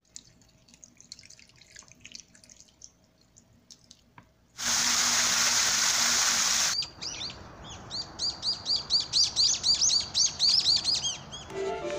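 A water jet spraying hard for about two seconds, then a bird calling in a fast run of high chirps, several a second. Piano music starts near the end.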